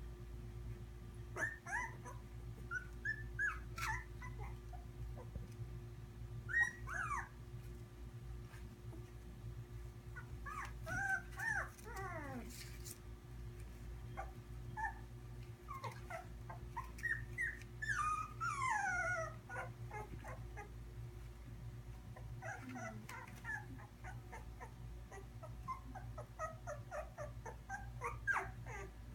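Three-week-old Labradoodle puppies whimpering and squeaking: short runs of high, thin cries, many falling in pitch, come again and again with pauses between.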